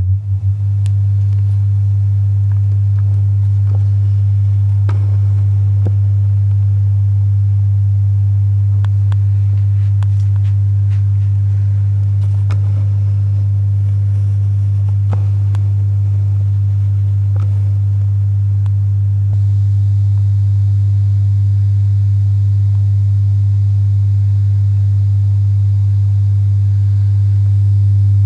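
Loud, steady low mains hum from an Audio-Technica AT-LP1240 turntable playing through its amplifier and speakers: the unwanted hum fault. A few faint clicks sound over it, and a faint higher buzz joins partway through.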